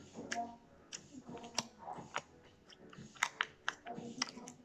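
Slime being squeezed and pressed with the fingers, giving a string of irregular sharp clicks and little pops.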